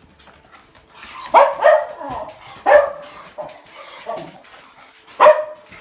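Pet dog barking: three loud barks, about a second and a half in, near the middle and near the end, with quieter shorter sounds between. Impatient demand barking while his dinner is being prepared.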